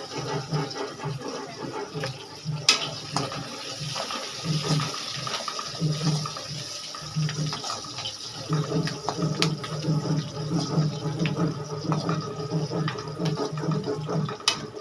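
Chopped onions, fenugreek seeds and green chillies sizzling in hot oil in a kadhai as they are fried until red, with a few sharp clicks as the pan is stirred.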